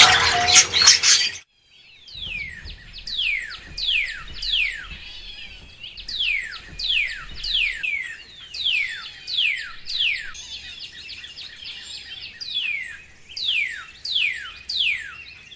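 A loud harsh burst of calls that cuts off after about a second and a half, then a long run of high, downward-sliding squeaks or chirps from a small animal, one to two a second.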